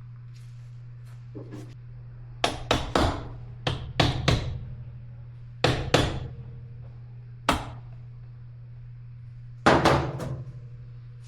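A string of sharp tool knocks and taps in irregular clusters, each ringing briefly, as hand tools work on a motorcycle's sprocket area during reassembly. A steady low hum runs underneath.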